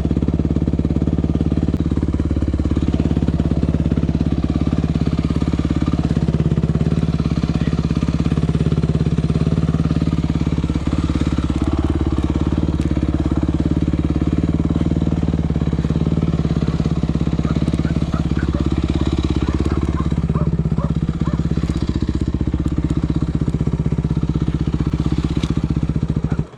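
Yamaha WR250F single-cylinder four-stroke enduro engine running at a steady, fairly constant speed.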